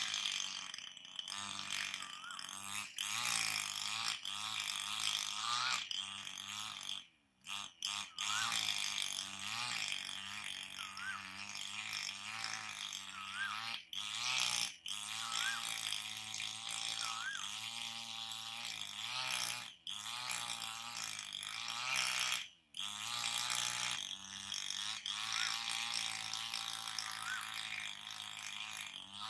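A busy chorus of bird calls, with a short upward-hooked note repeating every couple of seconds over a mass of wavering calls. It breaks off abruptly several times.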